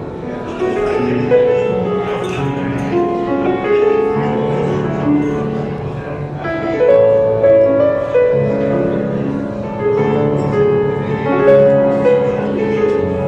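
Piano music: a slow melody over long held chords.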